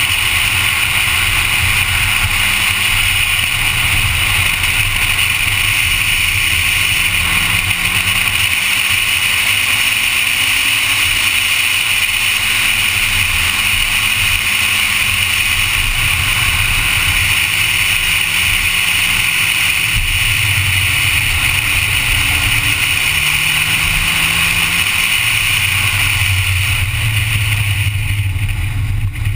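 Honda Civic engine running hard on a race track under a loud, steady rush of wind and road noise, its note rising and falling as the car accelerates and slows. Near the end the rushing eases and the engine comes through more strongly.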